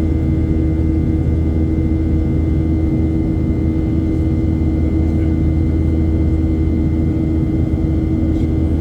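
Steady cabin noise of a Boeing 737-800 in flight, shortly after takeoff: the even rush of air and the drone of its CFM56-7B turbofans, with a constant hum tone running underneath.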